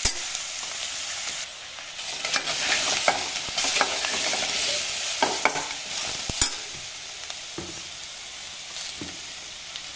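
Eggplant pieces sizzling in hot oil in an aluminium pot while a steel spoon stirs them, scraping and clicking against the pot from about two to six seconds in; the sizzle goes on quieter after that.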